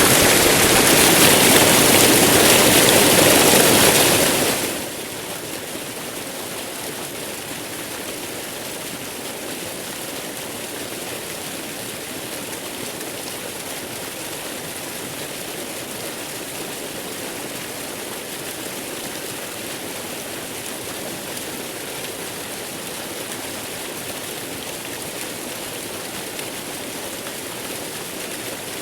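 Steady rushing hiss of waterfall noise mixed with white noise. It is louder for about the first four and a half seconds, then drops and settles to an even, lower level.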